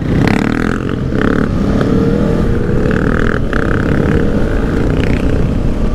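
Aprilia Tuono V4 1100's V4 engine running under way on the road, its pitch climbing slowly as the bike gathers speed.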